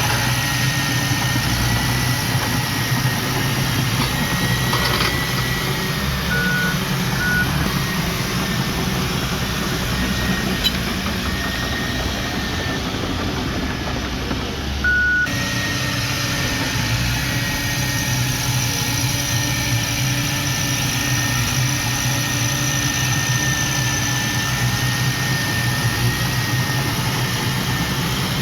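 Heavy diesel earthmoving equipment running steadily with a low engine hum and a thin high whine. Two short high beeps come a few seconds in, and another about halfway.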